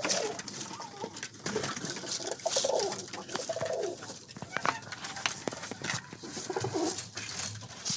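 Homing pigeons cooing, several low rolling coos overlapping and repeating, with scattered light clicks and knocks.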